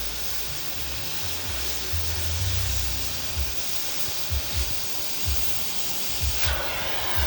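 Oxy-fuel gas cutting torch hissing steadily, the hiss growing fuller near the end.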